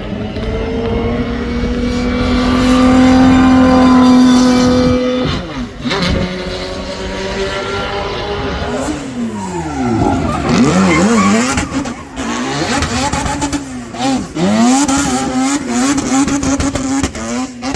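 Performance car engine at high revs, holding a steady high note for about five seconds before a sudden lift. It then revs rapidly up and down with tyres squealing, as in a drift or slide.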